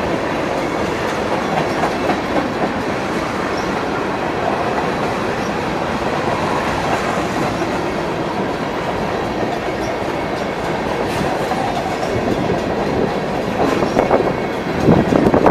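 Freight train cars rolling past at a steady pace, wheels clattering over the rails, with a few louder clanks near the end.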